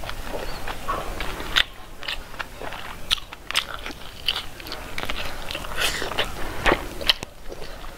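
Close-miked eating sounds of a person biting and chewing pieces of pork: a run of irregular wet, crunchy clicks and smacks.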